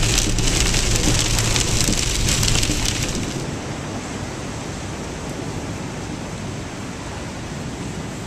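Heavy rain in a thunderstorm: a dense patter of drops over a low rumble for about three seconds, then easing to a softer, steady rain.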